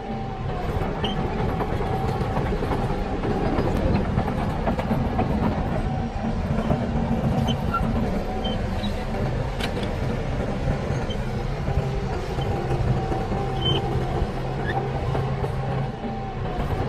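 Diesel engine of heavy earthmoving machinery running steadily under load, with a faint high tone held over it.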